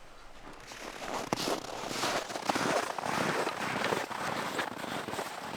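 Dense crackling and crunching, a rapid run of short irregular crackles that builds up about a second in and keeps going.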